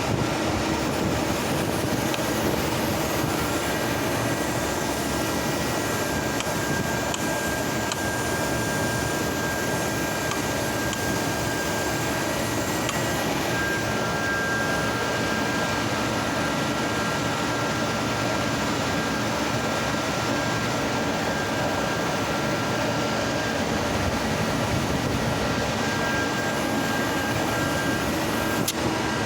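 CNC gear grinding machine running steadily: a continuous mechanical noise with faint, thin high whining tones over it.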